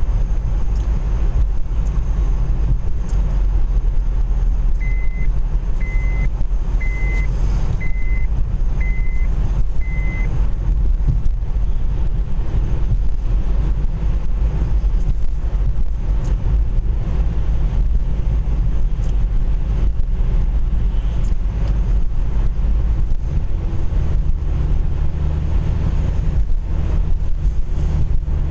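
Car in motion heard from inside the cabin: a steady low road and engine rumble. About five seconds in, a short high electronic beep sounds six times, about a second apart.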